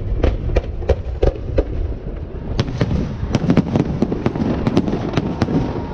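Aerial fireworks shells bursting overhead in a rapid series of sharp bangs, at first about three a second. After a brief lull they come in a denser run through the second half, over a steady low rumble.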